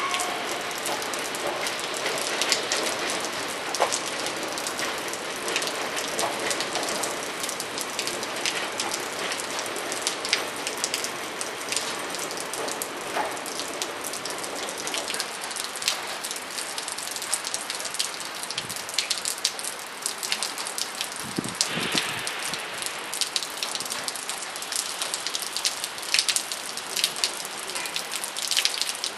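Steady rain falling, with many sharp drop impacts close to the microphone.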